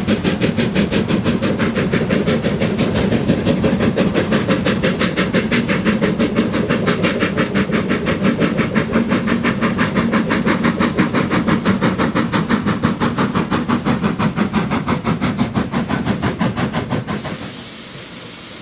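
Steam locomotive working a train, its exhaust beating rapidly and evenly at several beats a second. Near the end the beats stop abruptly, leaving a steady hiss of escaping steam.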